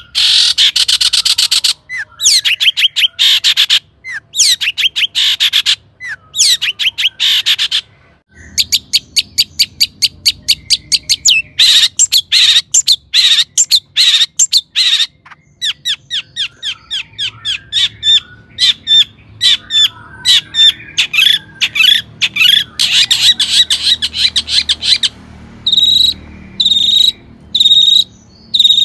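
Long-tailed shrike (cendet) singing: loud, fast runs of rapid chattering notes broken by short pauses, ending in a series of evenly repeated notes.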